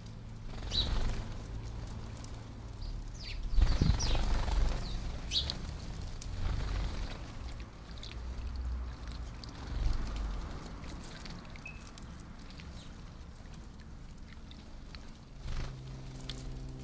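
House sparrows splashing and fluttering in a garden bird bath, in several irregular bursts, with a few short chirps between them.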